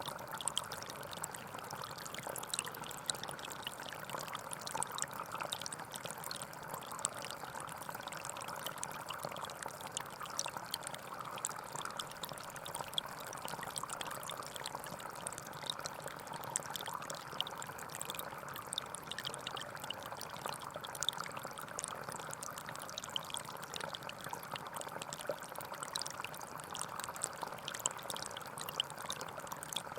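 Gentle forest stream flowing steadily over stones, with a continuous babbling rush and many small trickling splashes.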